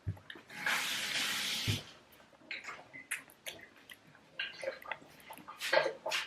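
A single rush of breath, about a second long, blown over a bite of hot food to cool it, followed by scattered faint clicks and taps.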